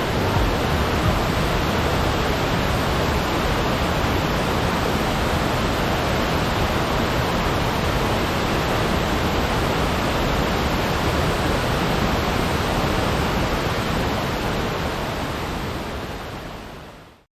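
Steady rushing roar of Iwatsuka Falls, water pouring down, which fades out near the end.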